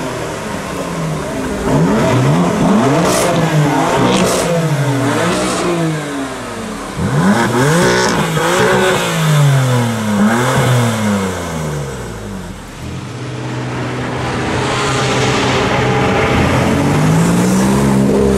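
Sports car engine revving repeatedly, its pitch climbing and falling about once a second, with a few sharp cracks among the revs; near the end it makes one slower, longer climb.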